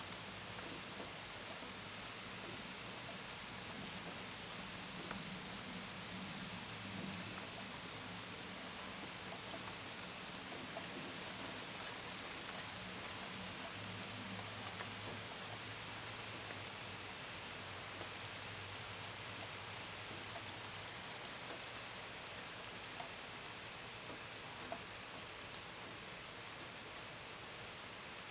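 Steady rain falling with scattered drips and pattering, and crickets chirping in a high, even pulse behind it. A faint low hum runs under the rain through most of the stretch and fades out near the end.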